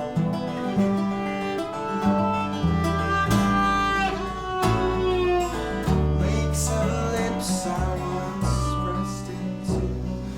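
Live acoustic band playing an instrumental passage: strummed acoustic guitar with bowed viola and a bass line that steps to a new note about every second.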